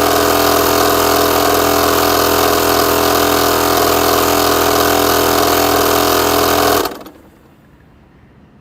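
MAX AK-HL1230E II air compressor running steadily, a loud, even motor drone, then stopping abruptly about seven seconds in.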